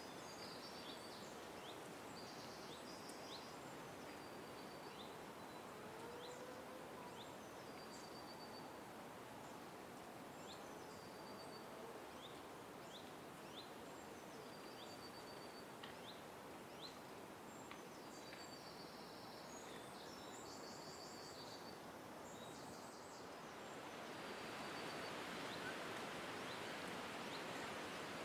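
Small birds chirping, with many short, high calls and brief trills, over steady background noise that grows louder near the end.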